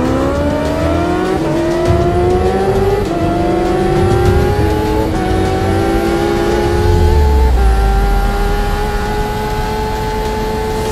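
2019 Kawasaki motorcycle engine accelerating hard through the gears. Its pitch climbs and dips slightly at each of about four upshifts, then holds a steady high note at speed.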